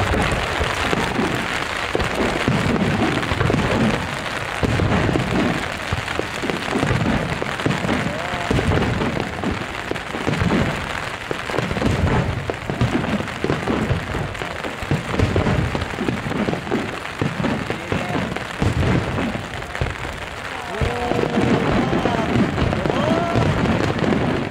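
Aerial fireworks bursting in a rapid run of low booms, about one a second, over a steady hiss of rain. Voices are heard near the end.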